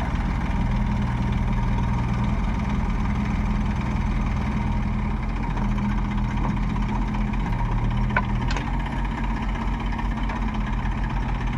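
Diesel engine of a heavy machine running steadily at low revs, with a couple of faint clicks about eight seconds in.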